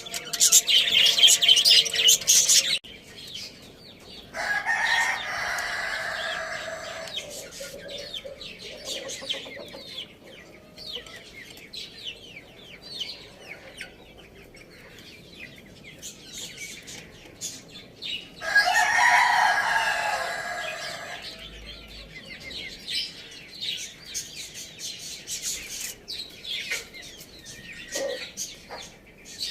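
Rooster crowing twice, each crow lasting about two and a half seconds, the second about fourteen seconds after the first. Small birds chirp throughout, loud and rapid for the first few seconds, then faint and scattered.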